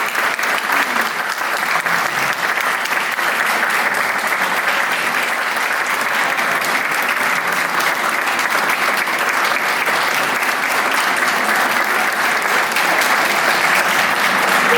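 Audience applauding steadily, a dense patter of hand claps without letting up.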